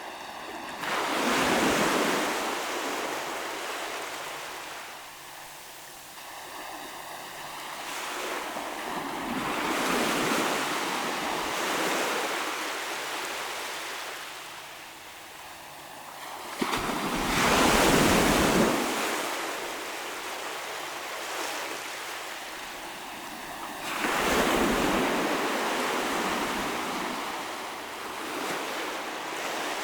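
Ocean waves breaking on the shore, rising and falling in four surges about seven to eight seconds apart. The loudest break comes in suddenly a little past halfway.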